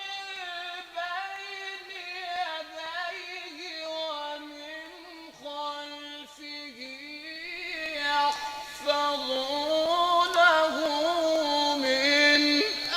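A young boy's high voice reciting the Qur'an in melodic tajweed, holding long notes that bend and ornament. It grows louder and climbs higher about eight seconds in.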